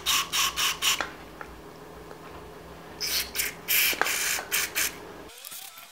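Aerosol carb cleaner sprayed in short hissing bursts into the passages of a small-engine carburettor body: a quick run of squirts in the first second, then another run from about three seconds in.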